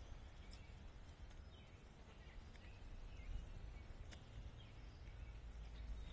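Faint, scattered short bird chirps over a steady low rumble, with a single click about four seconds in.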